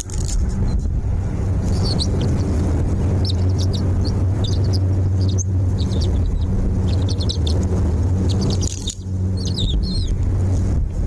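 Small birds chirping, short high chirps scattered through, over a loud steady low rumble that is the strongest sound.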